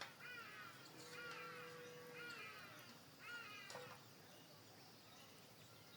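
Faint animal calls: about four quick groups of short, arched, downward-sliding cries in the first four seconds.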